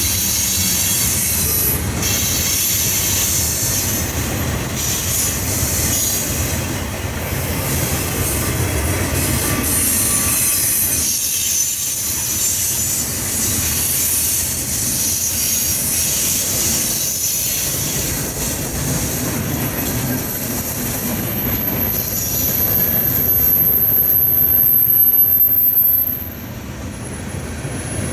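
Railroad cars rolling past on the rails, with wheel noise and high-pitched wheel squeal. A thin, steady high squeal runs through the second half, and the sound drops suddenly near the end.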